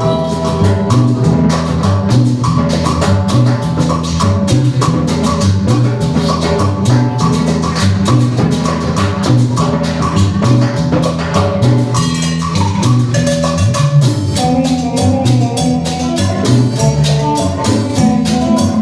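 Live band playing an upbeat Latin dance tune, with a prominent bass line and steady percussion under a bright melodic lead.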